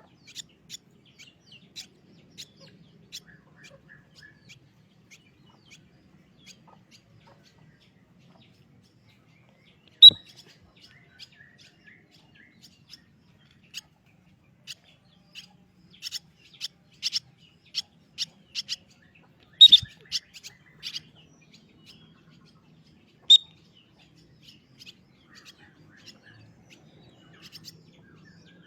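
Small birds chirping: short, high, scattered chirps, thickest in a busy run about two-thirds of the way through. Three sharp, loud clicks stand out, the first about ten seconds in.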